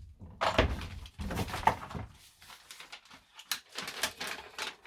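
Irregular knocks, thuds and scraping as an interior cover panel of the camper van is pulled at and handled.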